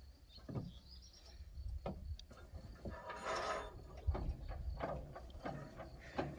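Scattered light mechanical clicks and knocks, with a short hiss about three and a half seconds in, over a low steady rumble.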